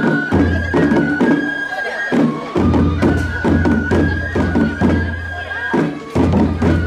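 Japanese festival hayashi music: a flute holds high notes that step between pitches over regular drum strikes. A low steady note comes and goes in stretches of a couple of seconds.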